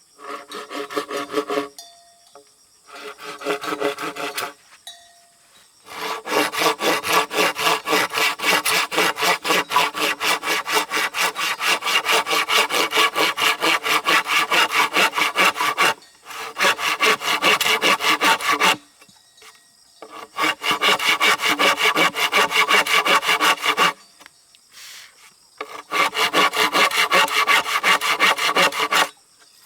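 Hand saw cutting wood in rapid, even back-and-forth strokes, in about six bouts with short pauses between them.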